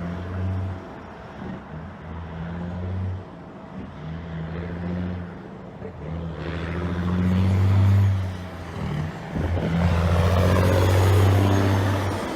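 Straight-piped diesel engine of a 1980s Western Star 4964 truck pulling through the gears. Its deep exhaust note cuts out and picks back up several times and grows louder as the truck comes closer, with a rising rush of road noise in the second half.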